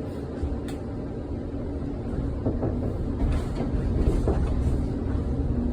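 1948 Philadelphia PCC streetcar pulling away from a stop under power: a low running rumble that grows louder from about two seconds in, over a steady hum, with a few scattered knocks and rattles.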